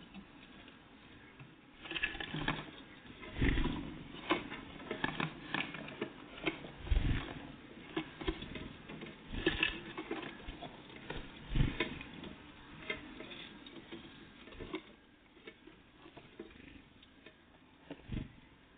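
Small birds, tits, pecking and tapping at a feeder close to the microphone: a busy run of irregular taps and clicks with a few heavier thumps, thinning out after about fifteen seconds.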